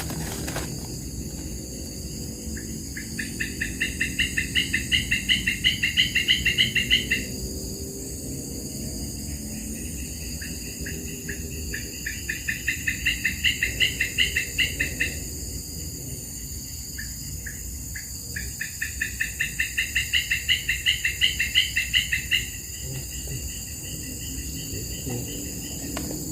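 Steady high-pitched insect drone, with three bouts of a rapid pulsing trill, about seven pulses a second, each bout lasting about four seconds, growing louder and then stopping abruptly.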